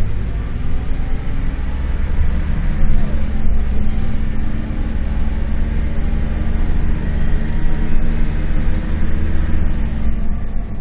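Scania K230UB city bus's diesel engine running under load, a steady drone over a strong low rumble, easing off slightly near the end.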